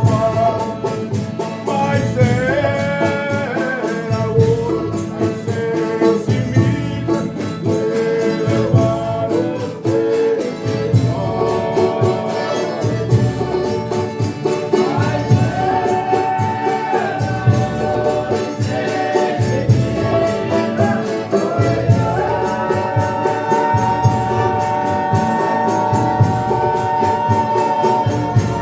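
Folia de Reis company singing a meal thanksgiving, several voices in long held lines over instruments with a steady beat.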